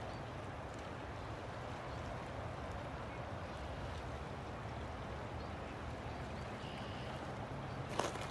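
River water flowing steadily, with a single sharp click near the end.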